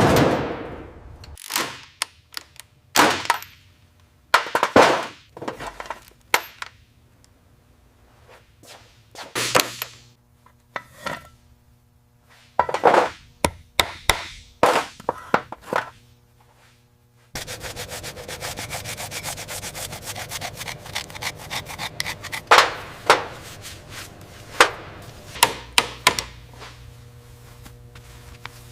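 Workshop tool noises: a string of sharp knocks, clacks and scrapes, then, a little past halfway, a steady rasping like sanding starts and runs on under further knocks.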